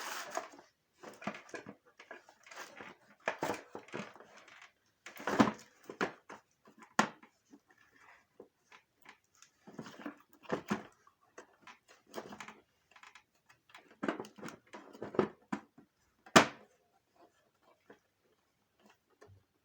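Plastic vacuum-cleaner housing being handled and fitted into place: irregular rubbing and scraping of plastic parts, with a sharp click about seven seconds in and a louder one near the end.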